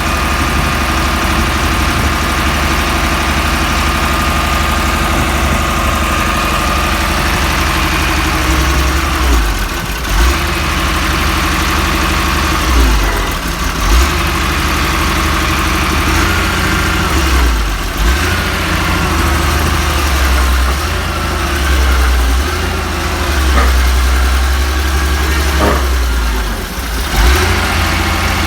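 Caterpillar 3116 turbocharged inline-six diesel engine running at a steady idle, with a few brief dips and swells in level.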